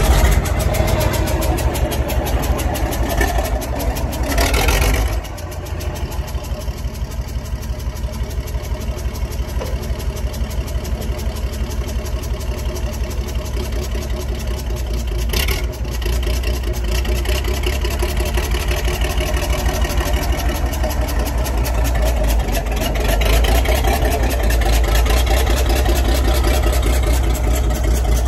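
1980 Bedford TK truck engine running steadily with an even pulsing beat; its note drops after a short rush of noise about five seconds in and rises again near the end. A sharp click sounds about halfway through.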